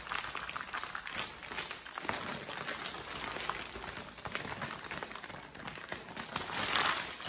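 Plastic packaging crinkling and rustling as it is handled, a steady run of small crackles with a louder rustle near the end.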